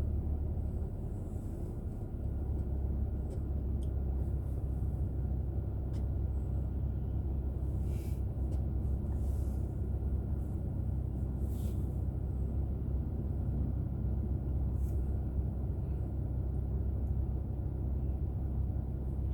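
Steady low rumble of a car driving on the road, heard from inside the cabin, with a few faint brief hisses partway through.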